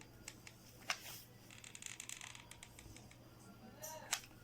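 Faint craft handling sounds: small clicks and light scratching as a piece is fitted onto a hand-made toy microwave and glued in place, with one sharper click about a second in and a brief faint hiss around the middle.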